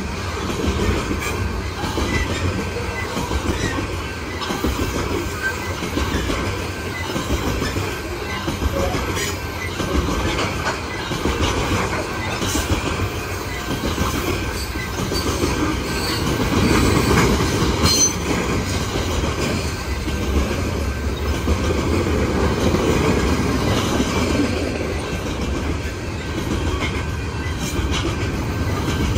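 Coal train's loaded open-top gondola cars rolling past on steel wheels: a steady rumble with clickety-clack over the rail joints and a thin, high wheel squeal running underneath.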